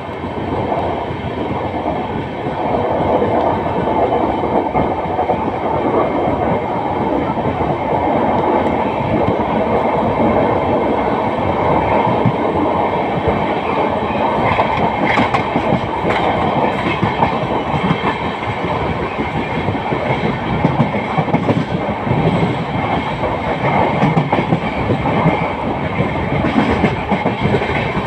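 Indian Railways passenger train running at speed, heard from an open coach door: a steady rumble of wheels on the rails with clickety-clack over the rail joints.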